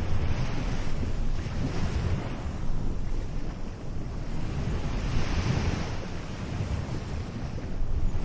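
Atlantic surf breaking and washing up the shore, with wind buffeting the microphone. The wash swells twice, about two seconds in and again about five seconds in.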